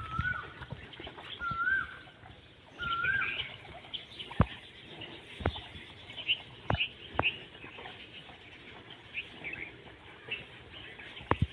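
A bird calling: a short whistled note that rises and dips, repeated about every second and a half through the first three seconds, followed by a few faint, short, high chirps. Sharp clicks sound several times in between.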